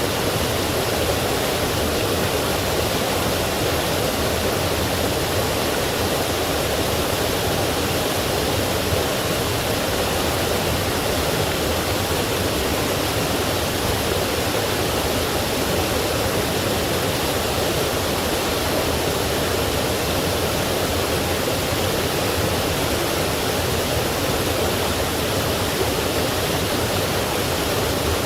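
A forest stream rushing over rocks and small falls, a steady, even splashing.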